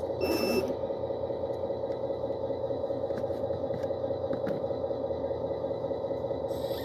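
Heavy equipment engine running steadily with a constant whine, and one short high beep just after the start.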